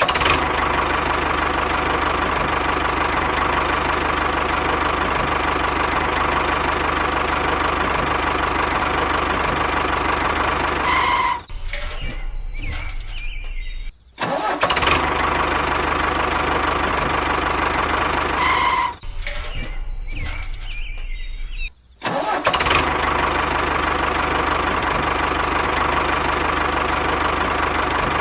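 Small motor of a homemade mini tractor running steadily with a buzzing hum, stopping twice for a couple of seconds, about a third and two-thirds of the way in.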